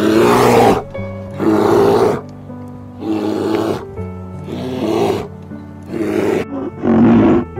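A large animal roaring in rough growls, six times, each under a second long and about a second apart, over background music with held notes.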